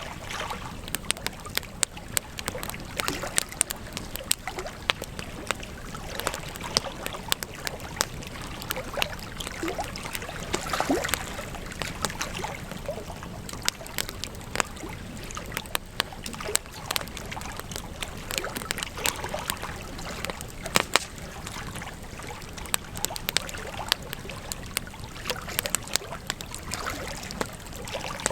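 Campfire burning: a steady rush of flames with frequent sharp crackles and pops from the burning wood.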